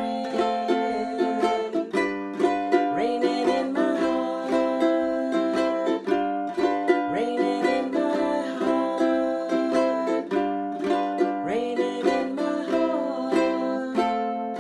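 Ukulele strummed in the island strum pattern, chords in the key of C ringing out in a steady rhythm of regular down-and-up strokes.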